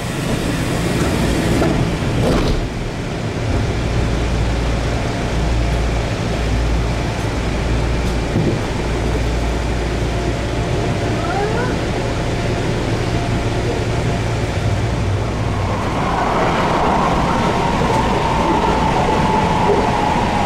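Interior of a Kintetsu Minami-Osaka Line local train: a steady low hum while the train stands, with a knock about two seconds in. Then a rising electric whine, and from about three-quarters of the way through the louder steady sound of the train running.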